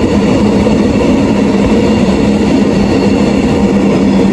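Train passing through a station at speed without stopping: a steady rolling rumble of wheels on rails with a steady low hum.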